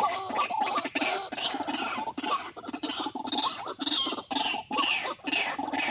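White-breasted waterhen calls: a continuous run of harsh, repeated croaking notes, several a second.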